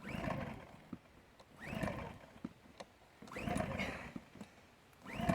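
Champion 2000-watt dual-fuel inverter generator being pull-started by hand on propane: four recoil-cord pulls, about one every second and a half, each a brief whirr of the small engine cranking over. The engine does not fire.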